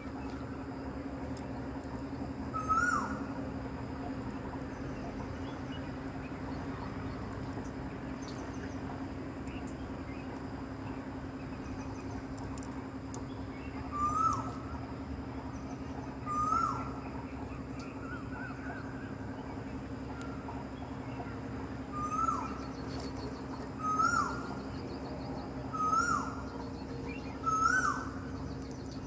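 A bird calling, about eight short calls that each rise and then drop, one near the start and the rest coming a couple of seconds apart in the second half, over a steady low hum.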